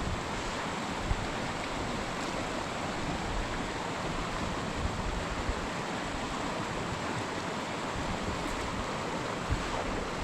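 Mountain stream flowing with a steady rushing noise.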